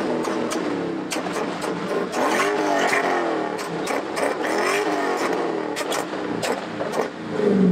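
Car engine revving, its pitch climbing and falling again several times over, with sharp crackles in between.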